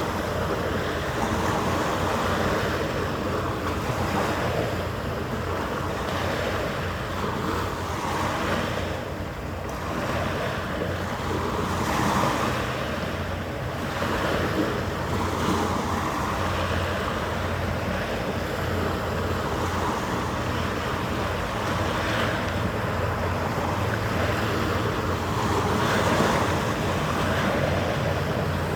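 Steady harbour ambience: a continuous rushing noise of wind and water that swells and ebbs every few seconds, over a faint steady low hum.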